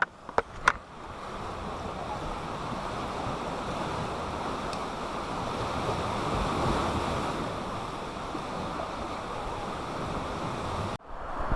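Steady rushing water noise, with a few sharp clicks at the start; it cuts off suddenly near the end.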